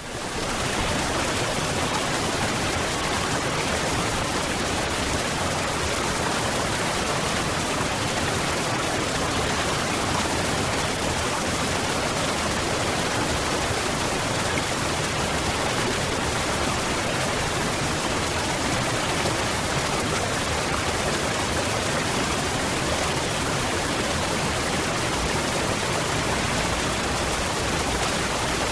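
Waterfall: a steady, dense rush of falling water. It fades in from silence over about the first second, then holds unchanged.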